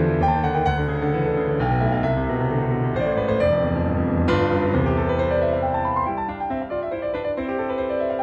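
Background piano music: chords with rising runs of notes.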